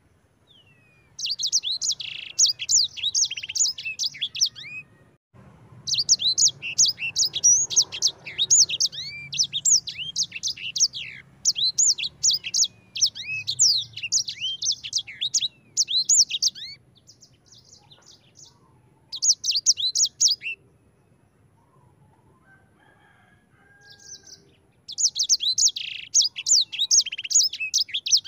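Sanger finch singing its fast rolling song, strings of rapid high chirps and trills. The song comes in four bouts: a long one of about ten seconds in the middle, and shorter ones with pauses between them.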